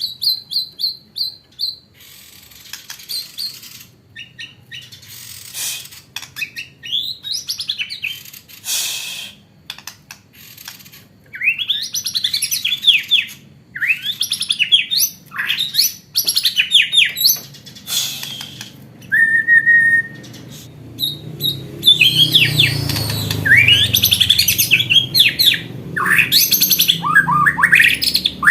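White-rumped shama (murai batu) singing in repeated bursts of rapid, sweeping whistled phrases with short pauses between them. Its song carries learned imitations of the blue-crowned hanging parrot (srindit).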